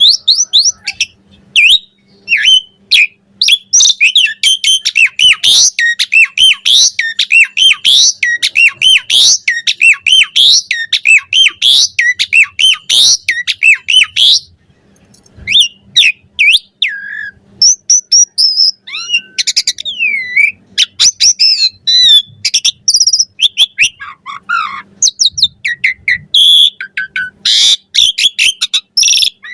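Asian pied starling (jalak suren) singing its varied chattering song: a fast run of quick rising chirps through the first half, then after a brief pause a looser mix of whistles, sharp clicks and falling glides.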